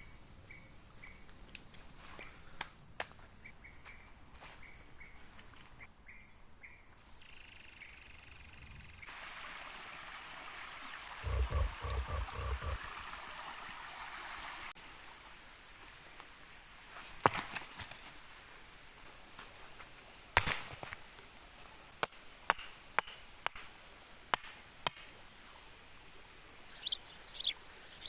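Steady, high-pitched drone of insects calling in the forest, with scattered sharp clicks and a brief run of low thuds near the middle. The drone changes level abruptly a few times.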